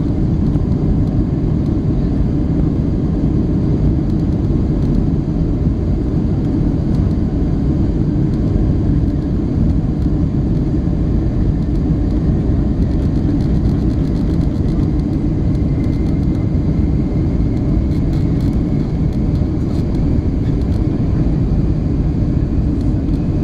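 Steady cabin noise inside a Boeing 757-300 airliner: the low, even rumble of the jet engines and airflow, holding at a constant level.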